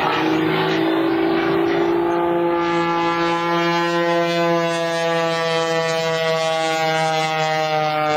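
Pitts S2S aerobatic biplane's piston engine and propeller droning steadily as it flies a slow roll past the crowd. The pitch climbs slightly early on and then sinks gently as it goes by, over a steady low hum.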